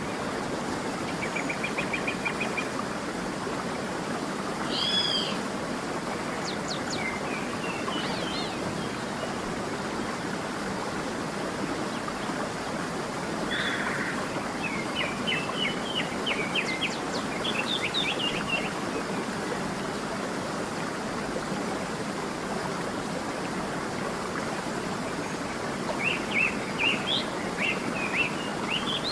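Songbirds calling in short chirps and trilled phrases, busiest a little past halfway and again near the end, over the steady rush of a stream.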